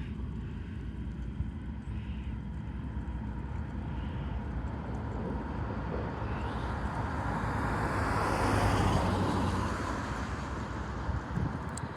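Outdoor engine noise of passing traffic: a steady low rumble, with one vehicle swelling to its loudest about two-thirds of the way through and then fading.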